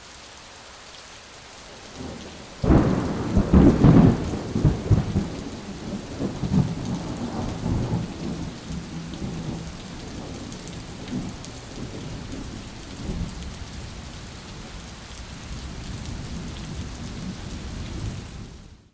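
Thunderstorm: steady rain, with a loud crack of thunder about three seconds in that rumbles away over several seconds while the rain goes on.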